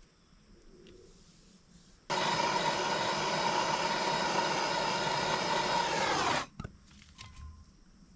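A handheld electric power tool's motor runs at a steady speed for about four seconds, starting abruptly about two seconds in, then winds down with falling pitch when released.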